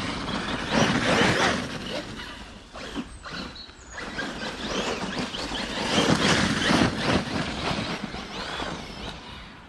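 Arrma Kraton 6S EXB RC monster truck driving through snow: motor whine and tyres spinning and churning in the snow. It surges louder about a second in and again around six to seven seconds.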